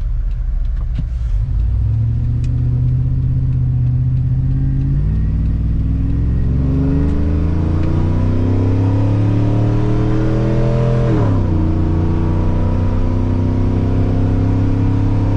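Chevrolet Silverado's 6.0 L V8 with long-tube headers and a true-dual stainless exhaust accelerating, heard from inside the cab. The exhaust note rises steadily, dips sharply about eleven seconds in as the automatic shifts up, then climbs again.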